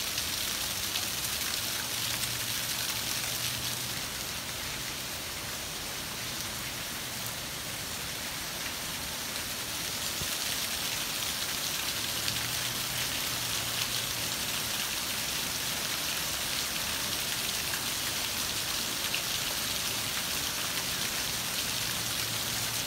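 Heavy rain falling steadily on a lawn, a street and leaves: an even, continuous hiss.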